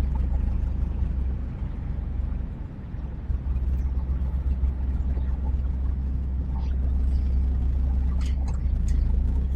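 Low, steady rumble of an HGV heard from inside its cab as it manoeuvres at low speed, dipping briefly about three seconds in. A few sharp clicks come near the end.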